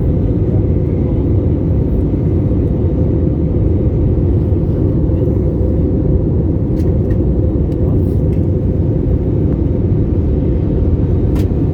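Steady low rumble of a Boeing 787-8 airliner in flight, the engine and airflow noise heard from inside the cabin.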